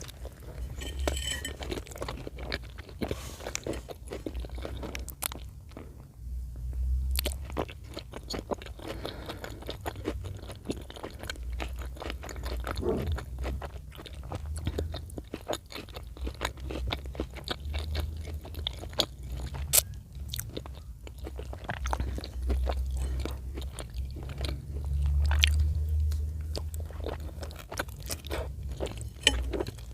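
Close-miked chewing of chicken in cream sauce: a dense, irregular run of wet mouth clicks over low rumbling swells.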